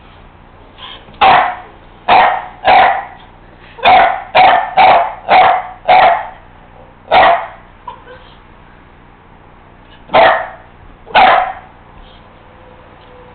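Dog barking: about a dozen short, sharp barks in irregular bunches, a quick run of them in the middle and two more after a pause near the end.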